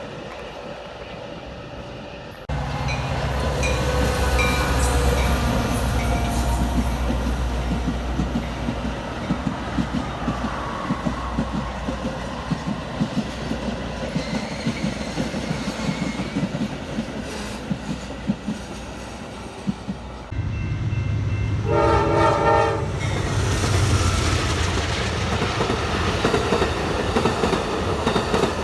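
Train passing close by, its wheels clattering over the rail joints with a steady low rumble underneath. The sound jumps abruptly louder twice, and a short multi-note train horn sounds once about 22 seconds in.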